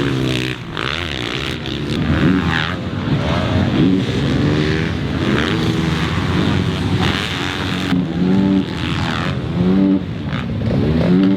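Several motocross dirt bikes racing on track, their engines revving up and falling back again and again as they accelerate, shift and brake through the corners.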